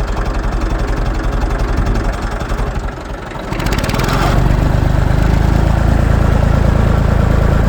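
Massey Ferguson 35 tractor engine idling with a slow, even pulsing beat, then about three and a half seconds in it picks up to a louder, steadier run, with a short hiss as it does.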